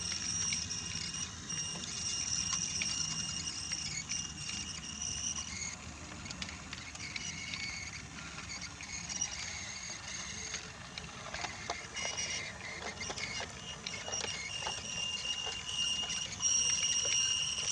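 Battery-powered Brio toy train's small electric motor whining steadily, fading away after a few seconds and coming back louder near the end as the train comes around again. Its wheels rumble and click over the joints of the wooden track, with a run of clicks toward the end.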